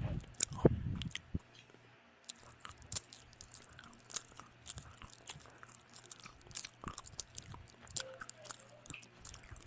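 A person chewing and biting food, with sharp clicks and small crunches of the mouth. The chewing is louder in the first second or so, then goes on more quietly.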